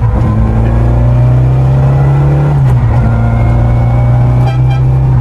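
Citroën AX GT rally car's four-cylinder engine pulling under load, heard inside the cabin; its note climbs slowly, drops once at a gear change about halfway through, then climbs again.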